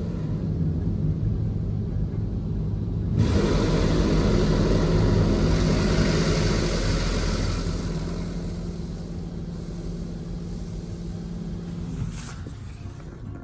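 Mark VII ChoiceWash XT car wash machine running with a steady low hum. About three seconds in, a sudden loud rush of spray water hits the vehicle and dies away over several seconds, and the hum cuts off near the end.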